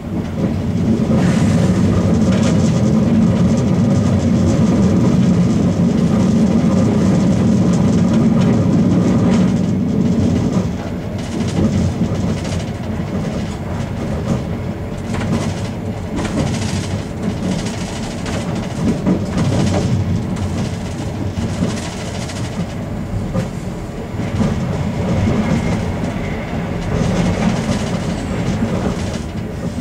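Ganz-Mavag electric multiple unit running on the track, heard from inside the rear cab: a steady rumble, louder for the first ten seconds or so, with the clicks of the wheels over rail joints. A faint high squeal starts near the end as the train reaches a station.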